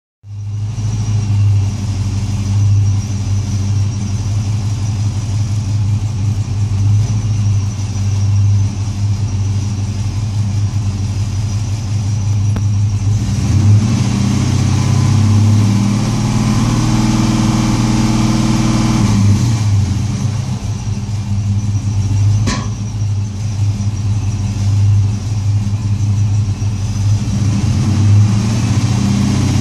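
GM LS1 5.7-litre V8 running with a misfire, mostly at a steady idle, with revs rising for a few seconds about halfway through. There is one sharp click about three-quarters of the way in.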